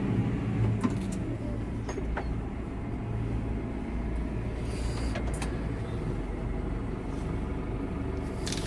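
Tractor engine running steadily, heard from inside the cab, with a few light clicks and knocks.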